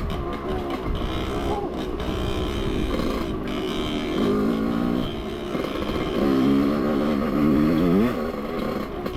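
Dirt bike engine running as the bike is ridden over rock, its pitch rising and falling several times with the throttle.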